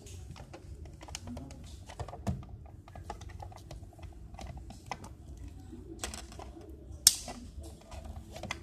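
Irregular small clicks, taps and knocks from hands handling UPS batteries and their connector leads while wiring them in series, with a short scrape about six seconds in and one sharp, loud click just after seven seconds.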